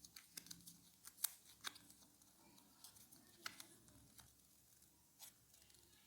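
Near silence broken by faint, irregular sharp clicks and light taps, about a dozen spread through, the loudest about a second in and halfway through.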